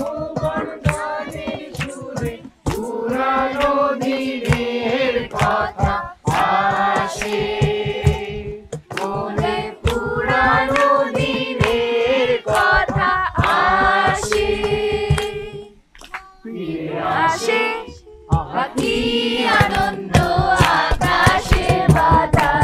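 A group singing a song together in chorus, kept in time with rhythmic hand clapping.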